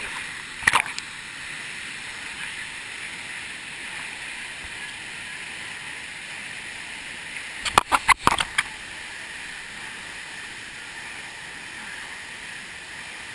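Steady rushing of a waterfall. A brief sharp sound comes under a second in, and a quick run of sharp sounds comes around eight seconds in.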